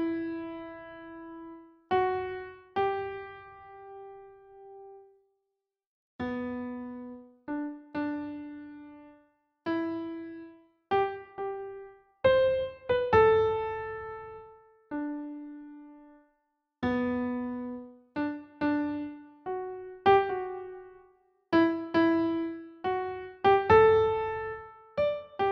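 Slow, soft solo piano melody: single notes and small clusters that strike and fade away, in unhurried phrases with short silent pauses between them. No fire crackle is heard under it.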